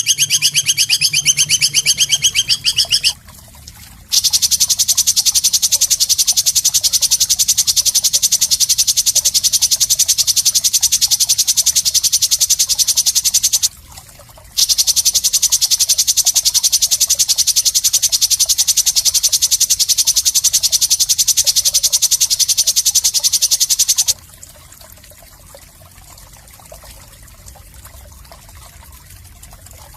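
Loud, high-pitched animal call made of very fast, even buzzing pulses: a short trill, then two long bouts of about ten seconds each with a brief break between. It stops sharply about six seconds before the end, leaving only a faint hiss.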